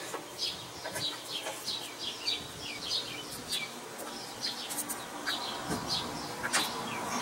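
A bird chirping outdoors, a quick run of short high notes that each slide downward, about three a second. A few light clicks and knocks come from the new A/C hose being handled and worked into place in the engine bay.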